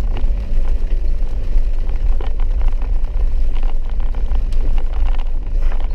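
Four-wheel-drive vehicle driving a wet dirt road: a steady low rumble with a faint hum, broken by scattered small knocks and clicks.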